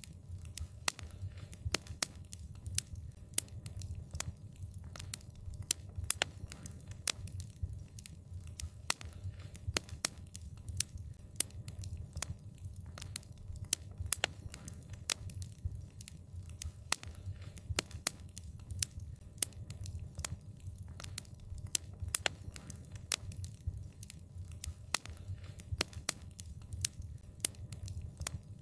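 Wood fire crackling: frequent, irregular sharp pops and snaps over a low, steady rumble of flames.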